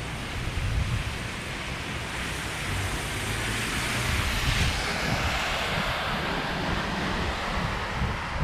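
Heavy rain hissing on a city street, with a vehicle's tyres swishing past on the wet road, swelling to a peak mid-way and fading again. Wind rumbles on the microphone throughout.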